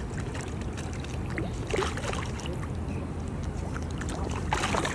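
Steady low outdoor rumble with faint voices in the background, and a brief louder rush of noise near the end.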